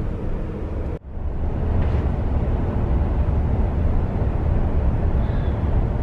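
Steady, muffled tyre and road rolling noise inside the cabin of a Tesla Model S driving on smooth, freshly laid asphalt, mostly a low rumble, with no rattle to be heard. There is a brief dropout about a second in.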